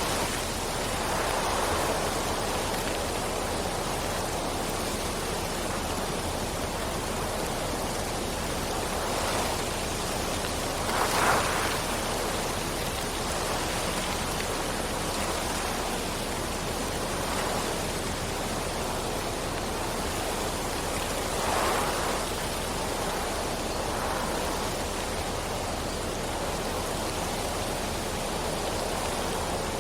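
Steady rain falling, an even hiss with a few brief swells, the strongest about a third and two thirds of the way through.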